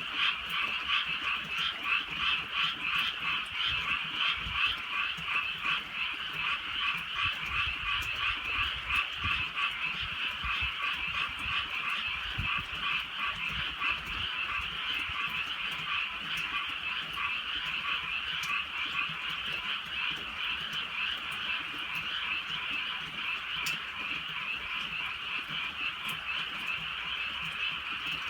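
A dense chorus of many frogs croaking at night, countless rapid overlapping calls forming a continuous pulsing din.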